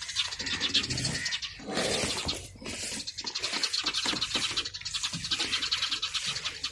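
Nestling birds begging: a continuous raspy chatter of rapid, even pulses, with a brief louder burst of noise about two seconds in.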